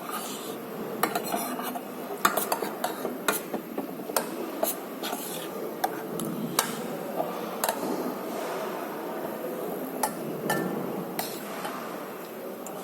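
Cutlery clinking and scraping against a plate with food, in short irregular clicks, as someone eats.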